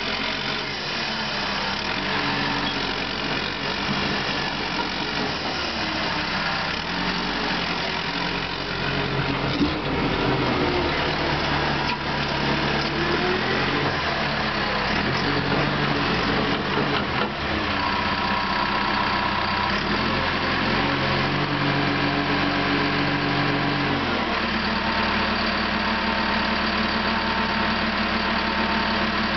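Caterpillar D5 dozer's diesel engine running while the machine is worked, its pitch shifting up and down several times and settling to a steadier tone for the last few seconds.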